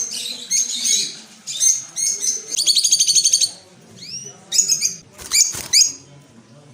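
A small songbird singing in short bursts of high chirps and trills, with a fast rattling trill about halfway through and a few rising whistled notes after it.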